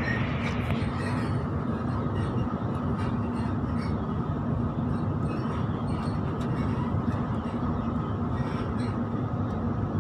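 Electric suburban train running along the track, heard from inside the carriage: a steady rumble with a low hum.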